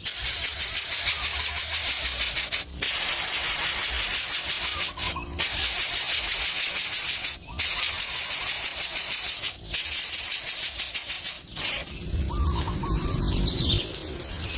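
A loud, steady high-pitched hiss, cut off briefly every two or three seconds. Near the end it gives way to a low rumble with a few short bird chirps.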